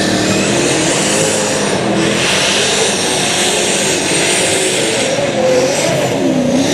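Competition pulling tractor's engine running loud and hard at high revs, the pitch wavering slightly, with a high whine over it.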